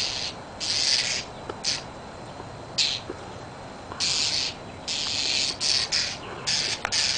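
A bird's harsh squawks, coming again and again in short bursts of about half a second.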